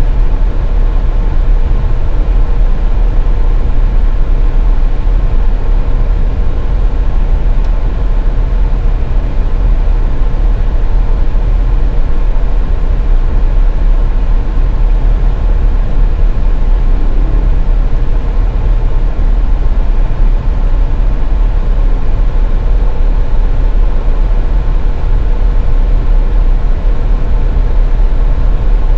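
Car driving on a highway: a steady low rumble of engine and road noise, with a faint steady hum above it.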